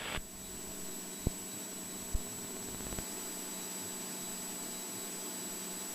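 Steady hiss and hum of a Cessna 172's cockpit intercom audio feed during the climb, with the engine heard only faintly through it and a steady high whine. Three faint clicks about a second apart early on.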